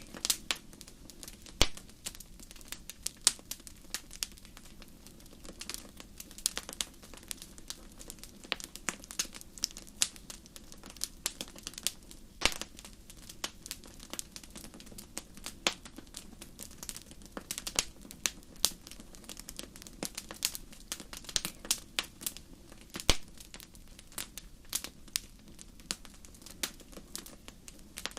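Wood fire crackling: irregular sharp pops and snaps, a few much louder than the rest, over a faint steady low rumble.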